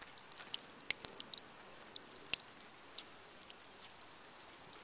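Small stream of water trickling, a steady hiss with many quick little splashing drips scattered through it.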